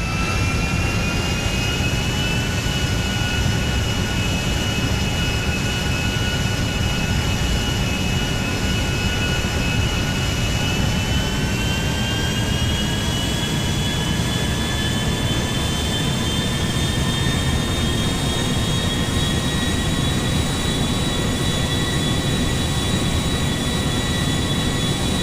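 Jet aircraft engine running: a steady roar with a high whine that creeps up in pitch twice, once about halfway through and again a little later.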